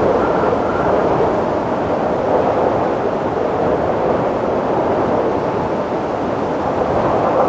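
Strong wind blowing, a steady rushing noise, with a faint whistle in the first second.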